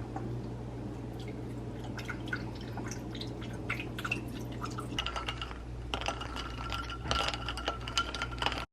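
Liquid dripping and pouring, with small clicks and clinks over a steady low hum. A thin steady tone joins about six seconds in.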